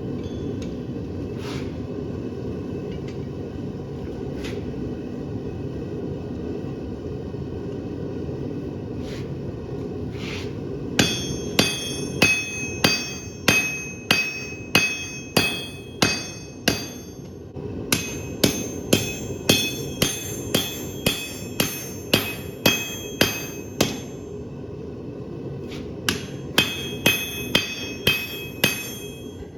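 Blacksmith's hammer striking hot steel on an anvil, each blow ringing. The blows start about a third of the way in and come at about one and a half a second, in three runs with short breaks between. Under them runs a steady low roar from the forge.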